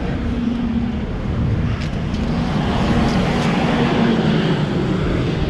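Steady rushing street noise heard while riding a fixed-gear bike, with a low engine hum from traffic that comes and goes.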